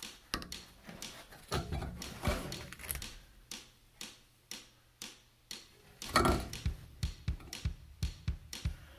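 Handling noise from old ductwork being pulled back: scattered clicks and knocks with short bursts of rustling, loudest about six seconds in.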